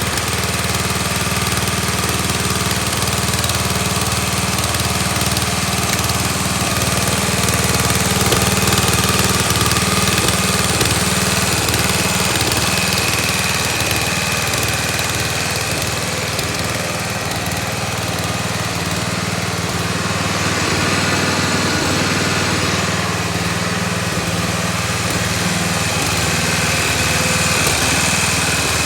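Cub Cadet 382 garden tractor engine running steadily just after starting, its ignition hot-wired to bypass a faulty harness.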